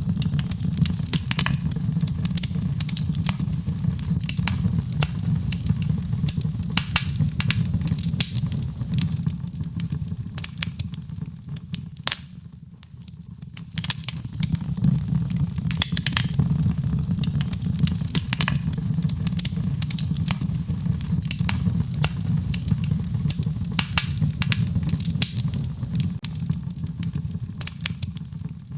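Wood fire in a fireplace crackling and popping over a steady low rumble of the flames, with a brief quieter lull about twelve seconds in.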